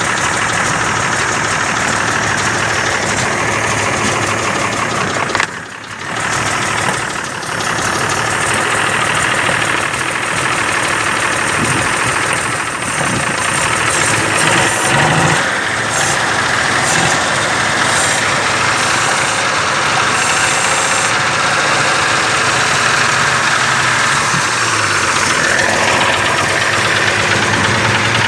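1946 Chevrolet truck's 235 straight-six engine running steadily, with a brief dip in level about five and a half seconds in.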